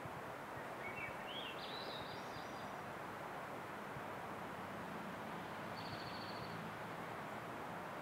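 Steady outdoor background hiss with a small bird singing: a rising series of short high notes about one to three seconds in, then a brief high trill about six seconds in.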